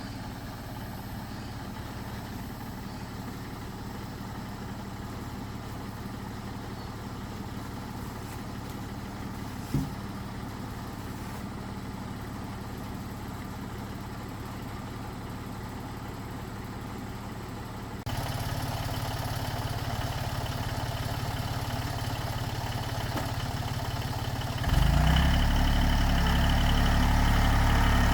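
Tractor engine running steadily, with one brief knock about ten seconds in; the engine sound gets suddenly louder about eighteen seconds in and again near the end.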